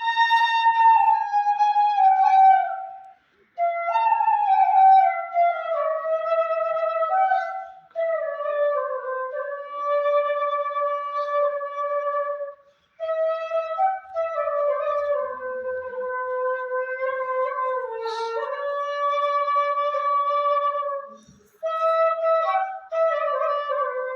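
Solo flute playing a slow melody with gliding pitch bends between notes, in phrases broken by short pauses for breath.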